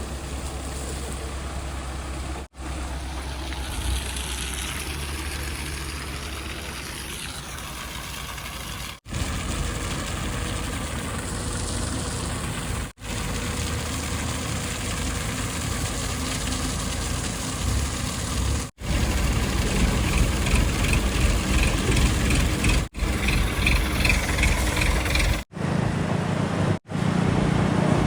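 Diesel engines of heavy machinery running steadily, a backhoe loader, tractors or tipper trucks, in several short segments that cut off suddenly and change from one to the next.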